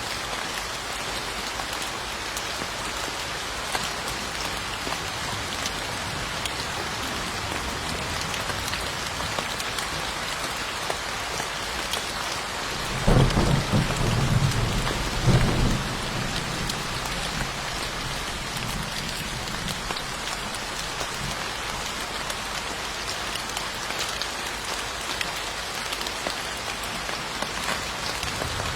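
Steady rain falling on a surface, with a roll of thunder about halfway through: two loud low peaks a couple of seconds apart, then a rumble that dies away over a few seconds.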